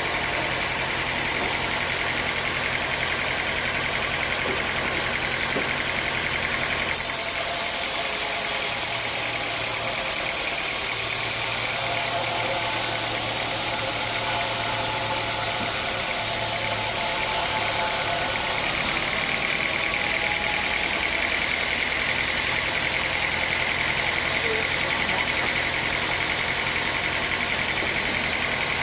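Sawmill machinery running steadily with an engine-like drone. From about seven seconds in, a harsh high hiss joins it for about eleven seconds, then drops away.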